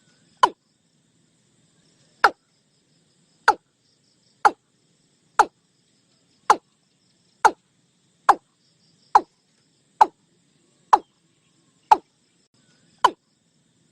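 Watercock calling: a series of short single notes, each dropping quickly in pitch, about one a second.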